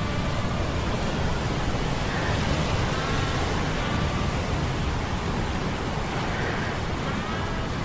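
Ambient mix of deep humming metal gears and sea storm sound effects: a steady, dense rumble and wash of noise. Faint whistling tones slide in pitch every couple of seconds.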